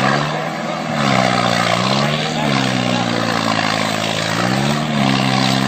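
Tractor engine running with a steady drone, its pitch sagging and climbing back a couple of times as the revs change.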